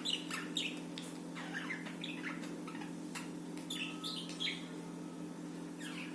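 Budgies (budgerigars) chirping in short, quick bursts, busiest in the first couple of seconds and again about four seconds in, over a steady low hum.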